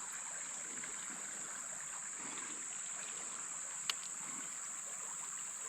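Steady high-pitched drone of insects over a faint wash of flowing creek water, with a single sharp click about four seconds in.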